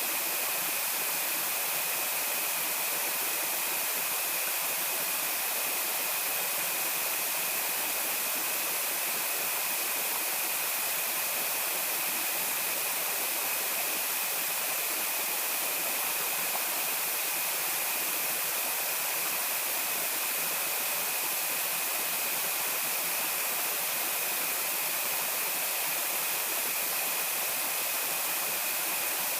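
Steady rushing of flowing water, even and unbroken, with a thin steady high-pitched whine running over it.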